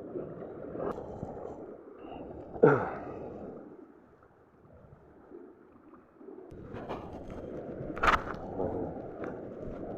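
Seawater washing at the shore, rising and falling, with a short loud swish falling in pitch about three seconds in and a sharp click near the end.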